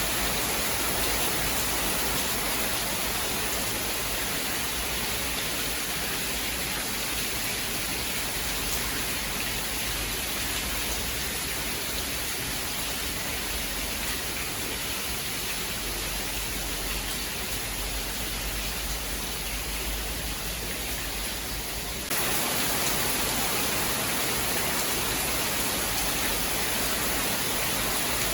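Steady heavy rain with an even hiss and no distinct thunderclaps. About three-quarters of the way through it changes abruptly to a slightly louder, brighter hiss.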